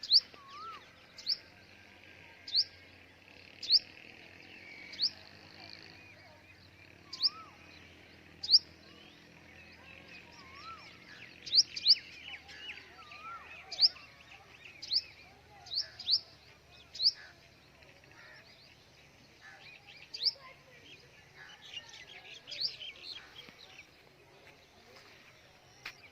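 Birds chirping: one bird repeats a short, sharp, high chirp about once every second or so, over quieter twittering and a few lower warbled notes from other birds.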